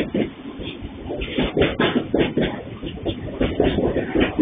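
Open freight wagons of a passing freight train rolling by, wheels and couplings giving a steady run of irregular knocks and clanks.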